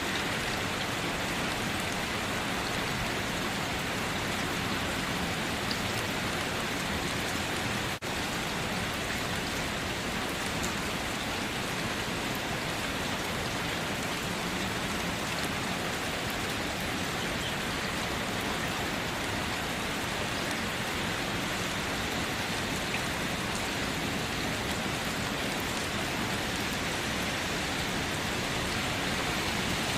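Steady rain falling, an even hiss with no break except a momentary dip about eight seconds in.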